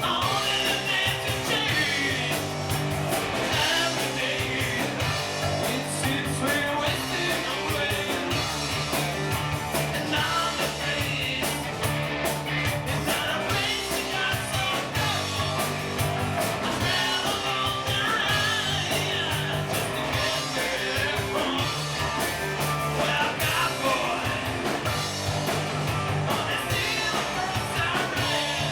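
Live rock band playing a cover song: guitar and a steady drum beat with a singing voice over the top.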